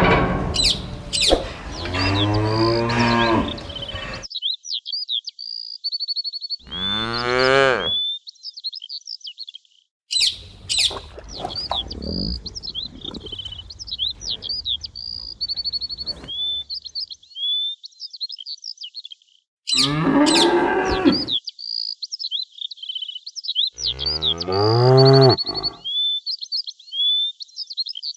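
Cows mooing: about four separate long, low moos that fall in pitch, with songbirds chirping steadily behind them.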